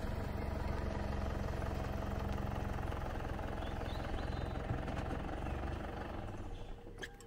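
SUV engine running as the vehicle drives in slowly and stops. The engine sound dies away near the end, and a single sharp click follows.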